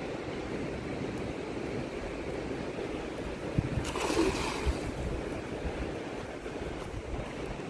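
Fast river water rushing steadily, with wind on the microphone and a brief louder surge about four seconds in.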